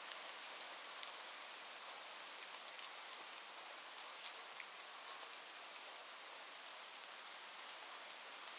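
Steady rain falling: a soft, even hiss with scattered individual drops ticking.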